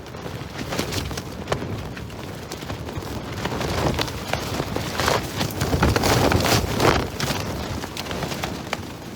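Strong wind gusting against a thin summer tent, its fabric flapping with many quick sharp snaps. The gusts build to the loudest point about five to seven seconds in.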